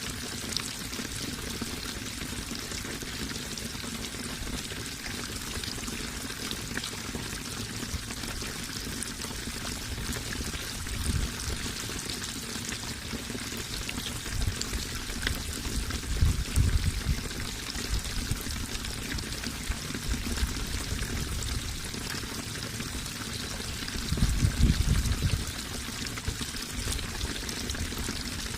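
Water running and trickling steadily with many small splashes, swelling into a low rumble three times.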